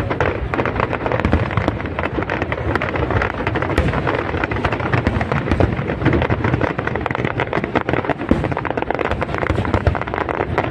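Aerial fireworks display: a dense, unbroken crackling of many small bursts over a low rumble.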